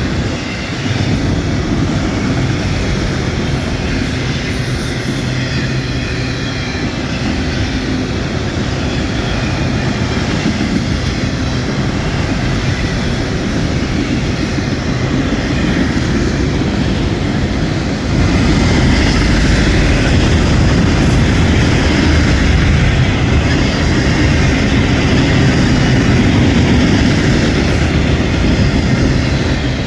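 A train rolling past, with strong wind buffeting the microphone; it gets louder about two-thirds of the way in.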